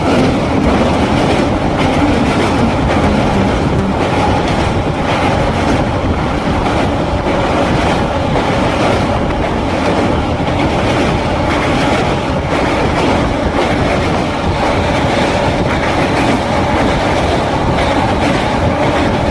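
Moving passenger train: a steady rumble of wheels on the rails, with the clickety-clack of the rail joints.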